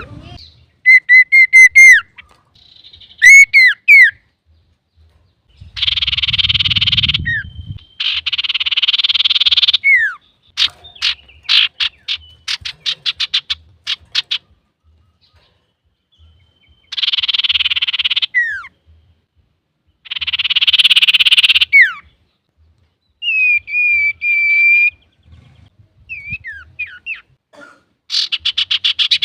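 Male common iora (cipoh sirtu) singing in full voice, the energetic song kept by Indonesian bird-keepers to train and provoke other birds. Harsh buzzy rasps about a second long alternate with sharp downward-sliding whistles, a fast run of clicking notes, and short pauses between phrases.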